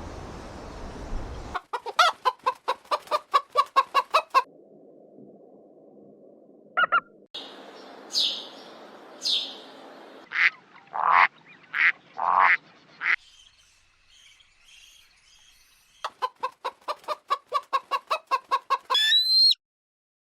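Bird calls from several different short recordings: two runs of rapid sharp calls at about five a second, a few single drawn-out calls in between, and a rising squealing call near the end.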